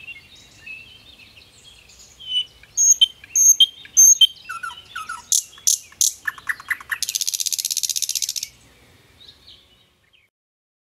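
Songbirds singing: varied chirps and short repeated whistled notes, then a fast, dense trill that runs about a second and a half. The song dies away near the end.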